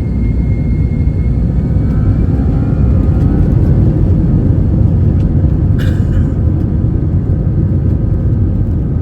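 Cabin noise aboard an Airbus A321-211 airliner: a steady, loud low rumble of the engines and airframe with a faint whine that rises slightly about two seconds in. A single short click sounds about six seconds in.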